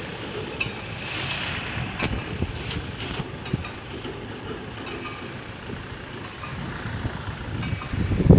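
Heavy road-construction machinery running with a steady low rumble, a few light knocks, and wind on the microphone.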